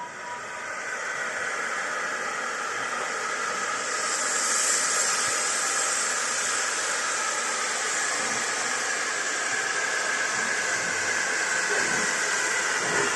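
Steam locomotive venting steam in a steady hiss that builds over the first few seconds and then holds.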